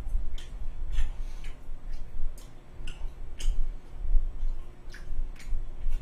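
A man chewing a mouthful of food close to the microphone, with irregular wet mouth smacks and clicks as the jaw opens and closes.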